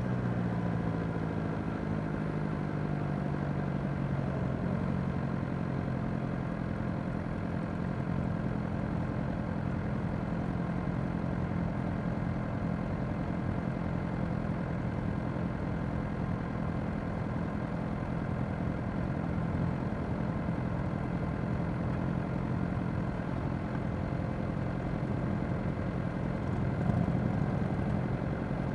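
Suzuki GSX-R600's inline-four engine slowing and settling to a steady idle about a second in, among other idling motorcycles in a slow-moving queue. A brief louder swell comes near the end.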